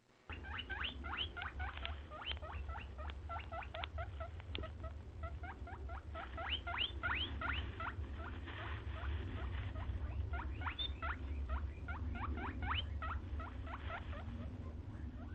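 A small animal squeaking in quick runs of short, rising high squeaks, several a second, over a low steady hum.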